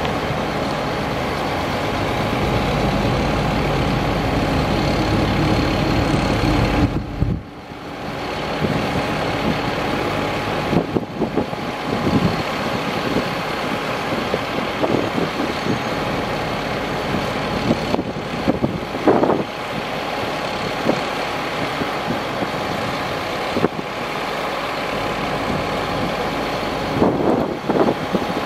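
Chevrolet C7500 ladder truck running steadily, with a thin steady whine over the engine noise. The low rumble drops away briefly about seven seconds in, and a few short louder sounds come near 11, 19 and 27 seconds.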